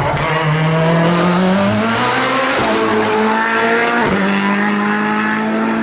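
Hillclimb race car's engine at full throttle, its pitch climbing under acceleration with brief breaks about two and a half and four seconds in, where it changes gear.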